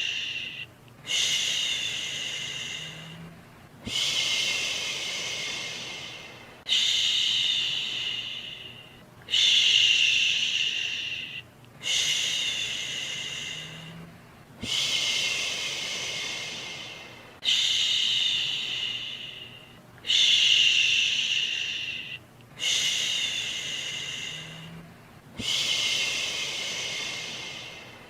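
Rhythmic 'shhh' shushing, about ten in a row, each starting sharply and fading away over about two seconds, one every two and a half seconds or so, over a faint steady hiss of white noise.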